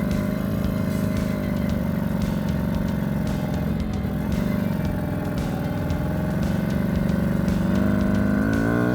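Small Kreidler Florett 50cc two-stroke single-cylinder motorcycle engine running steadily at low revs as the bike creeps slowly across the ford. The revs start rising about eight seconds in.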